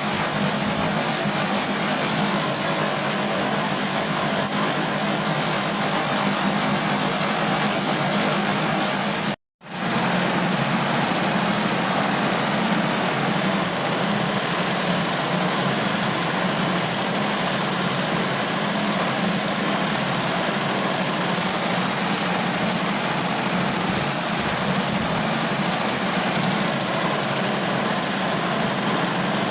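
Steady rain, a continuous even hiss, which cuts out for a split second about nine and a half seconds in.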